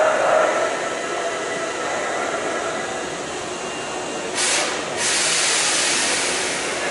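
Hankyu electric commuter train at a station platform, its running noise steady, then a sudden rush of hissing air about four seconds in that carries on as a steady hiss.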